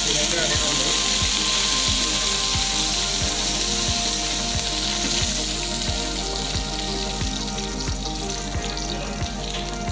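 Shallots and dried red chillies sizzling in hot oil in a pan while a wooden spatula stirs them. The sizzle is strongest in the first half and eases slightly later on.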